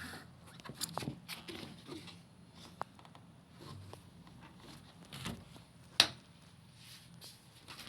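Scattered clicks and rustles of things being handled, with one sharp click about six seconds in.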